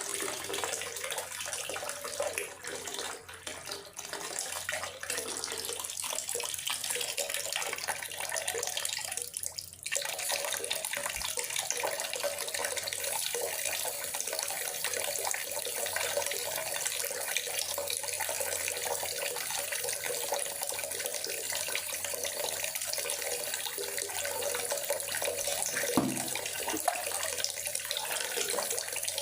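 Steady rain falling in a forest, an even hiss of water with no pauses. It thins briefly twice early on, and a short low thump comes near the end.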